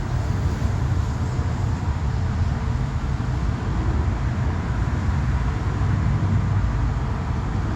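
Steady low rumble with a fainter hiss, like vehicle road noise.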